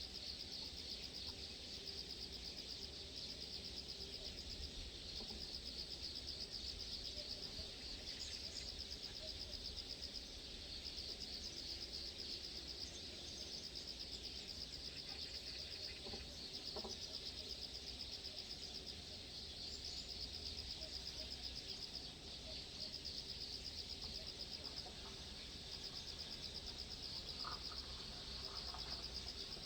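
Insects trilling steadily in a continuous high-pitched chorus, with a few short bird chirps and a low rumble underneath.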